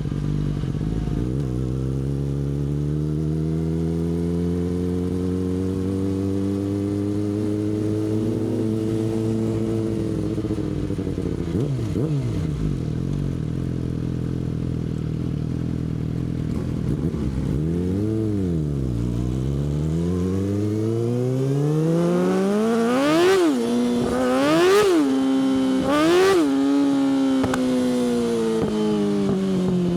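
Yamaha R6 inline-four sport bike with an Akrapovic exhaust being ridden. The engine note climbs slowly at first, dips and rises again later, and gives three quick throttle blips about three-quarters of the way through. Near the end the pitch falls steadily as the bike slows.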